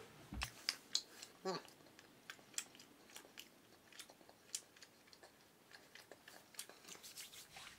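Faint mouth noises of a man chewing beef jerky: scattered wet clicks and smacks of the tongue against the roof of the mouth, with a brief hum about one and a half seconds in.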